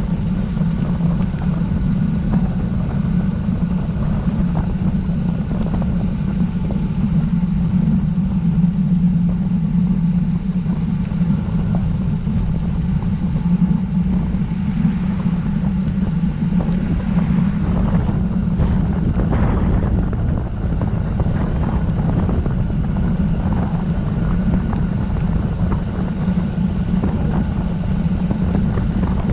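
Steady wind noise rushing over the microphone of a camera on a moving road bike.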